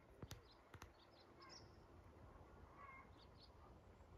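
Near silence with faint bird chirps, short calls scattered throughout, and two soft clicks about a third of a second and just under a second in, over a low rumble.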